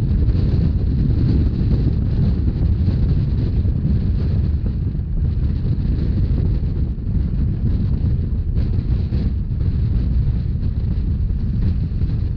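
Narrow-gauge Rhaetian Railway train running, a steady low rumble with wind buffeting the microphone.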